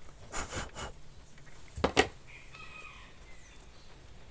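Paintbrush bristles sweeping dust off a hair dryer's heating-element coil, a few brushing strokes with the sharpest about two seconds in. Just after it, a short bird call lasting about a second.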